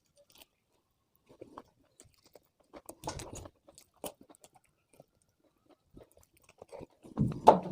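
Close-miked chewing and biting of food, with small wet mouth clicks and smacks. A louder bite about three seconds in and the loudest one near the end.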